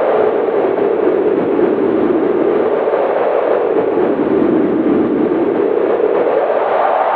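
Howling winter wind: a steady rushing noise whose pitch sinks slowly and then rises again near the end.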